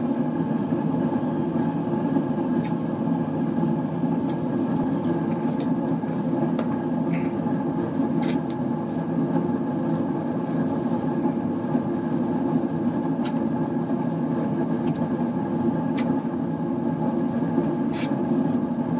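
Paint spray booth's ventilation fan running with a steady, even hum, with a few brief ticks over it.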